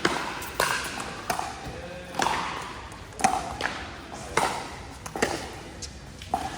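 Pickleball paddles striking a plastic pickleball during a rally: sharp hollow pops, roughly one every half second to a second, each with a short ring.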